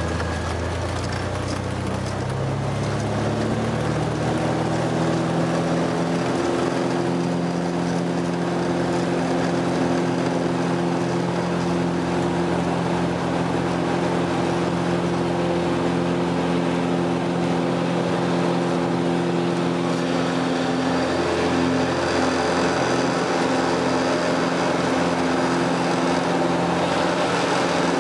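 Small airplane's engine and propeller climbing in pitch to full power over the first several seconds of the takeoff, then running steadily at takeoff power.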